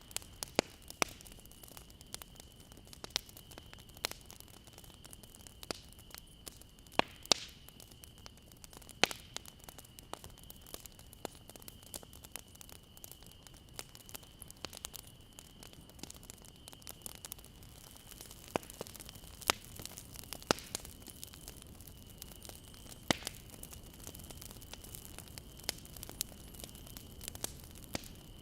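Campfire crackling: irregular sharp pops and snaps of burning wood over a low steady hiss.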